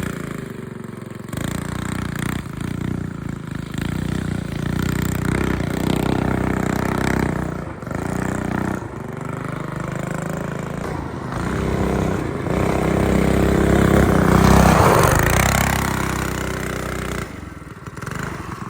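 Small off-road vehicle engine revving up and falling back again and again while being ridden, loudest about fourteen seconds in.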